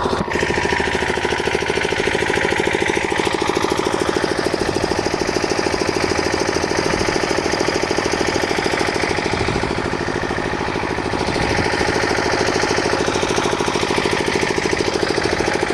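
A machine engine running steadily with a fast, even knocking pulse, and a higher hum that shifts in pitch over it during the first few seconds and again late on.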